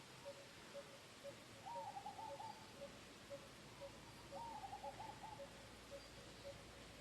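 Faint bird calls: one low note repeated evenly about twice a second, with two short runs of quicker, higher arching notes about two and four and a half seconds in.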